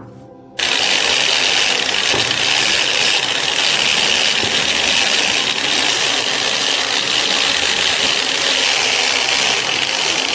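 Abrasive sandblaster blasting rusted metal parts: a loud, steady hiss that starts suddenly about half a second in and holds without a break.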